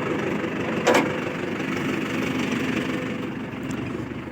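Mahindra 605 tractor's diesel engine running as it pulls a stuck trolley, with one sharp knock about a second in. The engine grows gradually quieter toward the end.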